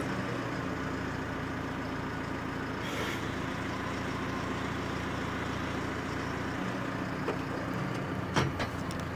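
Large vehicle or machine engine running steadily, with a short click about three seconds in and a sharper knock near the end.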